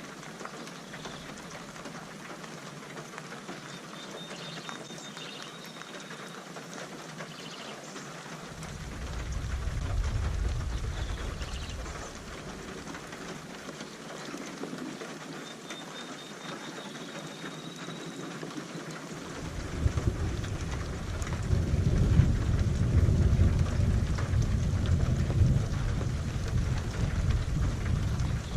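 Steady rain falling, with two rolls of thunder: a shorter rumble about a third of the way in, and a longer, louder one that begins about two-thirds of the way through and runs on.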